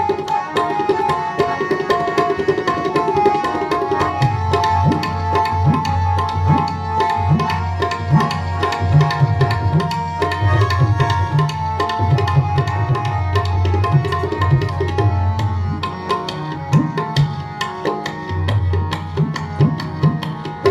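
Tabla playing a steady, busy rhythm with deep bass strokes that bend in pitch, over sustained harmonium tones: an instrumental interlude between sung lines of a kirtan shabad.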